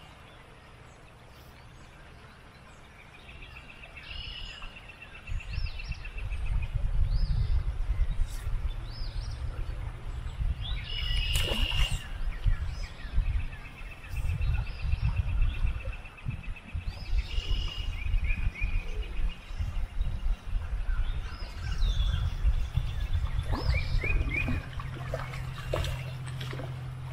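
A songbird singing repeated long, even trills, with other short bird chirps, over a low rumble that comes and goes.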